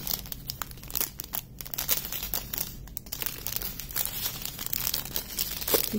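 Small plastic bags of diamond painting drills being handled, crinkling with many irregular sharp crackles.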